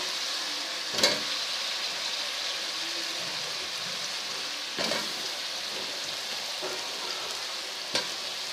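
Spiced onion-yogurt masala sizzling steadily in a steel pot as raw chicken pieces are added, with three short knocks spread through the sound.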